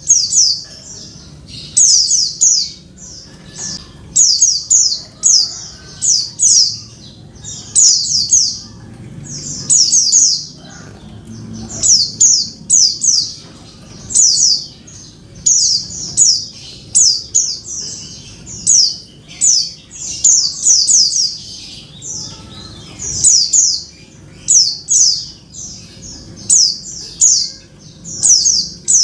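Female white-eye (pleci) calling: short, high, falling chirps in quick clusters of two to four, repeated about once a second. This is the female's call used to draw a male into song.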